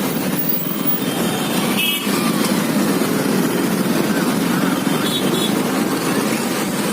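Steady rumble of a motorcycle riding through city traffic: engine and road noise with wind on the microphone.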